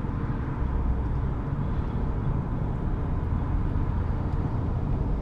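Steady road noise of a car driving at about 50 km/h: an even low rumble of tyres and engine.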